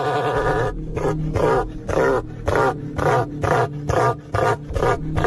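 A bird giving one long harsh call, then a rapid series of short, harsh yelping calls at about two a second, over a steady low hum.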